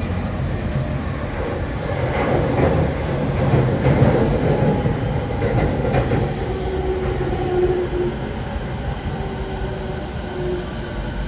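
Interior running noise of a Tokyo Waterfront Area Rapid Transit 70-000 series electric train car at speed: a steady rumble of wheels on rails, louder for a few seconds in the middle. A faint tone comes and goes in the second half.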